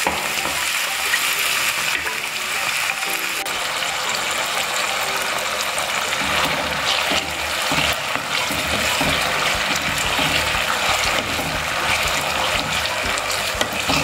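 Sliced potatoes sizzling steadily in hot oil in a nonstick pan, stirred now and then with a wooden spatula.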